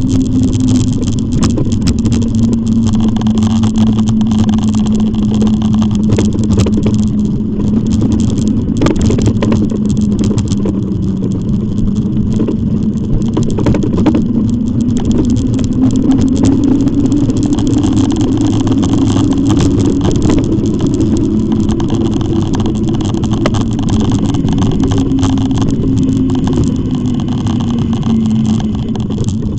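An e-bike on the move: a steady hum that slowly rises and falls in pitch with the riding speed, over road and wind noise with scattered small rattles and clicks.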